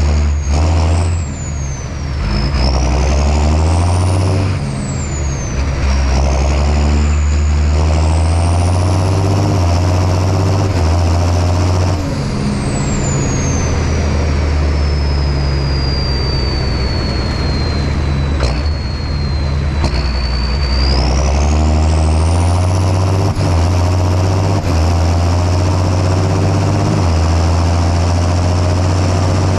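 John Deere 6630 Premium tractor's six-cylinder diesel engine running steadily under plowing load, with a high-pitched whine that rises and falls. The engine note dips briefly a few times in the first several seconds.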